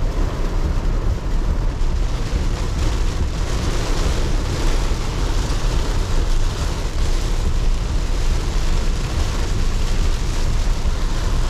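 Heavy rain falling on a car's roof and windscreen, heard from inside the car, with a steady low rumble underneath.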